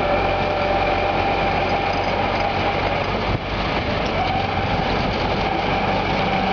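DT-75 crawler bulldozer's diesel engine running steadily, with a faint steady whine over the low engine note.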